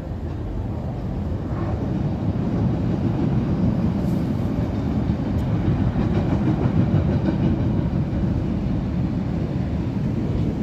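Chicago 'L' rapid-transit train running over the elevated track: a steady low rumble that builds to its loudest in the middle, then eases slightly near the end.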